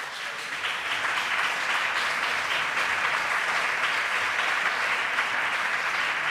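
Applause from a chamber audience after a speech, building over the first second and then holding steady.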